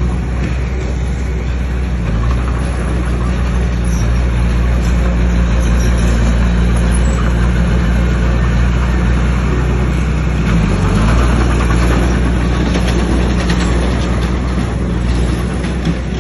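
A bulldozer's heavy diesel engine running steadily under load. Its pitch dips briefly about two-thirds of the way through, then recovers.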